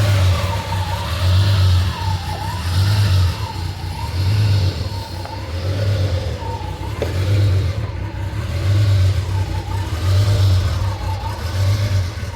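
1987 Ferrari Testarossa's flat-twelve engine at cold idle, heard at the exhaust. The idle hunts up and down in an even rise and fall about every second and a half: the engine is searching for its idle while cold, which it does until it steadies out after a minute or two.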